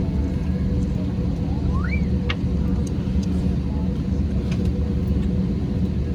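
Steady engine and airflow rumble inside the cabin of an Airbus A320-232 with its IAE V2500 engines running, with a steady hum and a brief rising squeak about two seconds in.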